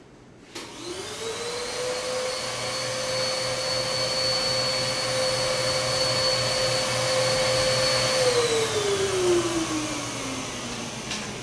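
A small vacuum-type electric motor is switched on and spins up quickly to a steady whine with a rushing hiss. It runs at an even pitch for about seven seconds, then is switched off and winds down with a slowly falling whine.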